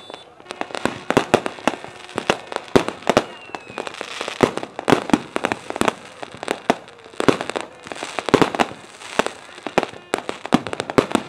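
Aerial fireworks bursting and crackling: a rapid, irregular run of sharp cracks and pops, several a second.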